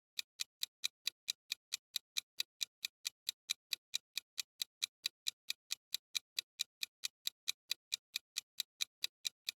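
Clock-ticking countdown sound effect, an even tick about four times a second, timing the answer to a quiz question.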